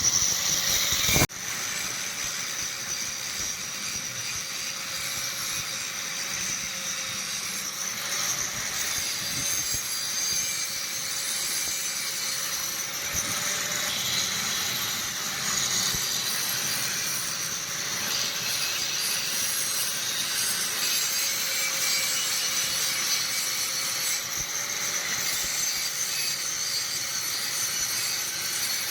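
Steady rasping noise of steel being cut or ground down with a tool. It begins suddenly about a second in and runs on evenly, with a faint wavering whine beneath it.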